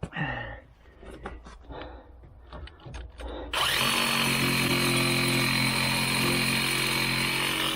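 A few short knocks, then a handheld power tool starts abruptly about halfway through and runs loud and steady at an even pitch.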